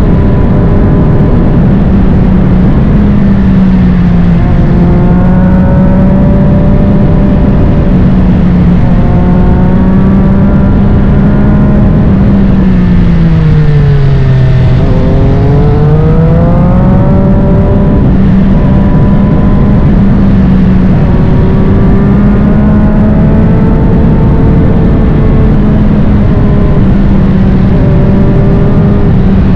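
Triumph Street Triple 765 RS inline-three engine through a Spark Grid-O full exhaust, ridden at speed under heavy wind rush. The engine note holds fairly steady with small steps, falls away about halfway through as the bike slows, then climbs again as it accelerates.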